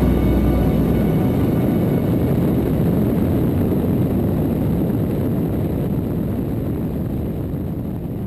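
Propeller airplane engine and airflow noise: a steady rumble that slowly fades out toward the end.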